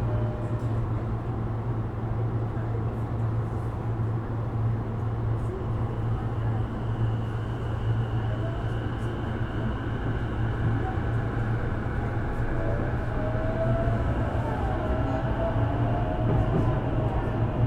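Running sound of a Sotetsu 12000 series electric train with Mitsubishi IGBT-VVVF control: a steady low rumble of wheels on rail, with a thin motor whine slowly rising in pitch in the second half.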